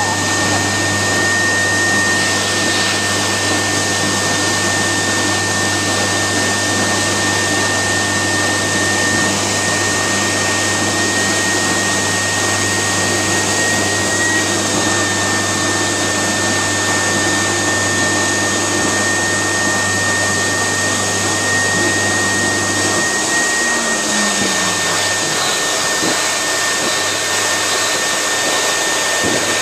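Build-A-Bear stuffing machine's blower running, a steady whooshing rush of air with a thin high whine.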